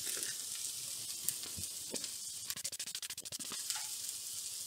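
Diced potatoes, onion and tomatoes sizzling steadily in oil in a frying pan, with a quick run of crackles about halfway through.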